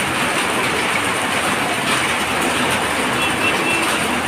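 Heavy rain pouring down on a flooded street: a loud, steady, even hiss.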